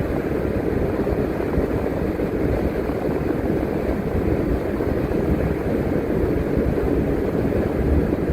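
Steady engine and road noise of a transit bus driving.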